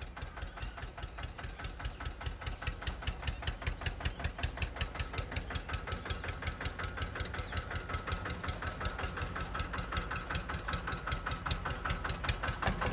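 Tractor diesel engine running with a fast, even chugging that grows a little louder a few seconds in.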